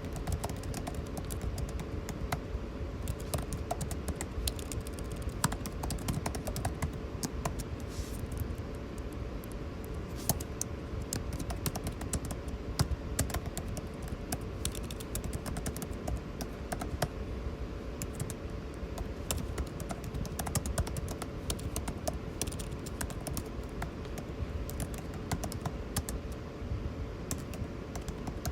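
Computer keyboard typing, a rapid irregular patter of key clicks, over the steady hum and rush of air conditioning.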